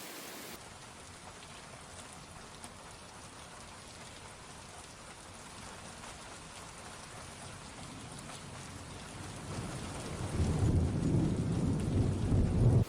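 Steady heavy rain. About ten seconds in, a loud deep rumble swells up over it and then cuts off abruptly near the end.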